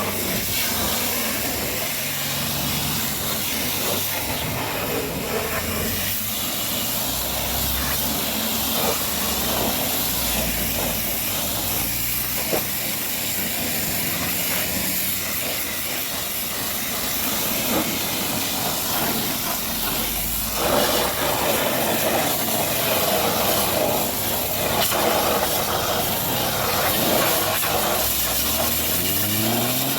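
High-pressure washer jet spraying water onto a truck, a steady hiss. A low motor hum sits underneath and rises in pitch near the end.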